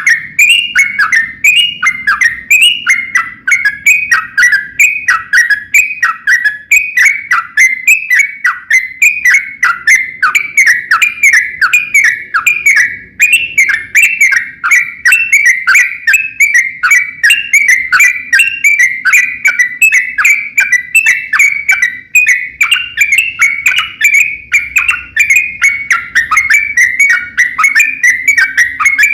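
Yellow-vented bulbul (trucukan) singing a long, unbroken run of loud, bubbly whistled phrases, each note falling in pitch, about two notes a second.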